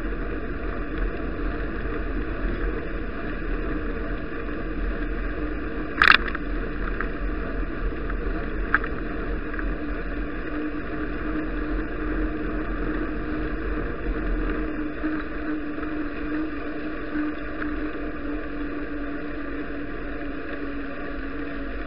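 Steady rushing wind and road noise picked up by an action camera on a moving bicycle, with a faint steady hum. There is a sharp click about six seconds in and a smaller one about three seconds later.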